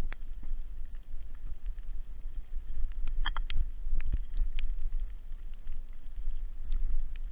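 Wind buffeting the microphone of a moving action camera in a low, steady rumble, with scattered clicks and rattles, a small cluster of them about three seconds in.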